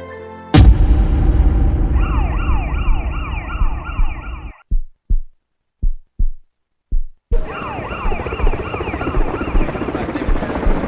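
Siren wailing in quick falling sweeps, about three a second, over a loud rumbling din that starts with a sudden burst. It cuts out for a few seconds, leaving only five short thumps, then resumes.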